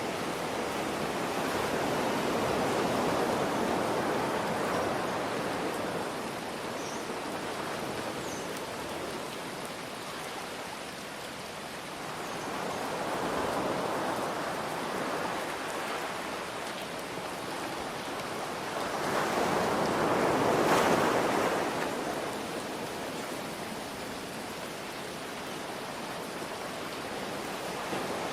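Ocean waves breaking and washing in, three slow surges, the loudest about two-thirds of the way through, over a steady hiss of rain.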